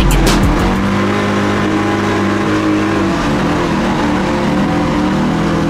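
Drift car's engine heard from inside the caged cabin, running at steady revs, its pitch shifting slightly about three seconds in.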